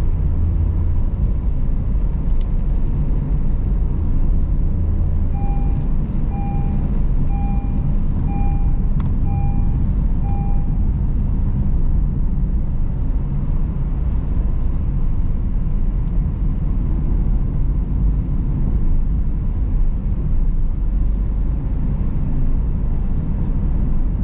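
Steady low rumble of a car's engine and tyres heard from inside while driving. A few seconds in comes a run of seven short, evenly spaced electronic beeps, under a second apart.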